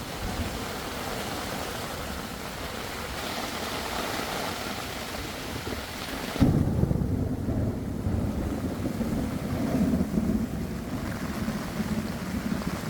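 Heavy rain pouring in a thunderstorm. About six seconds in, the sound changes abruptly to a louder, deeper rumble that carries on to the end.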